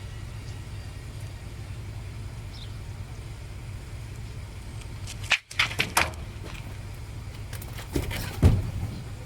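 Car engine idling steadily as a low hum. Sharp knocks and clicks come in bursts a little past halfway and again near the end.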